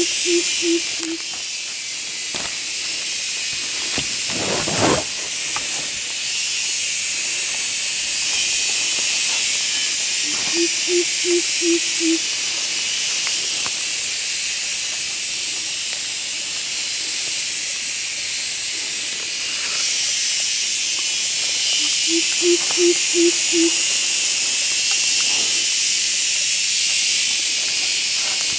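Steady high-pitched hiss of a jungle insect chorus. A short run of about five low hooting notes comes three times, about eleven seconds apart, and one dull knock sounds about five seconds in.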